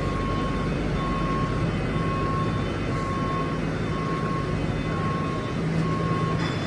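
Steady engine rumble and low hum on an airport apron, with a high electronic warning beep repeating about once a second.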